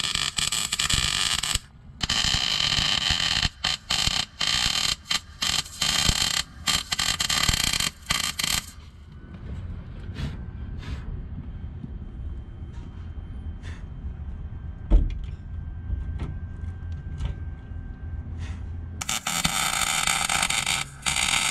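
Wire-feed welder arc crackling and hissing in stop-start bursts, run without shielding gas, through the first nine seconds or so and again near the end. In between it is quieter, with a few clicks and one sharp knock.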